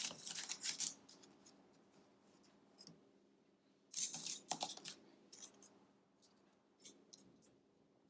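Wooden jumbo popsicle sticks being handled and stacked, scraping and clicking together: two short bursts of scratchy clicking, one at the start and one about four seconds in, with scattered light ticks between.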